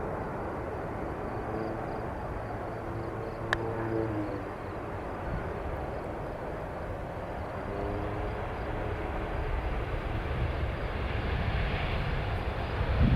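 Aircraft engine noise: a steady rumble with a faint hum that grows louder toward the end, and one sharp click about three and a half seconds in.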